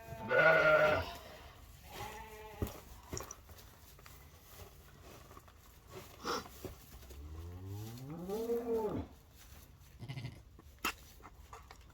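Sheep bleating: a loud bleat just after the start, a shorter fainter one about two seconds in, and a longer bleat that rises and then falls in pitch around eight seconds in, with small knocks and rustling between.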